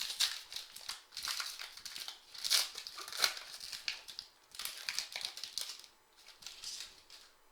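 Foil trading card pack wrappers crinkling and tearing as they are opened by hand, in four or so bursts of crinkling with short pauses between them.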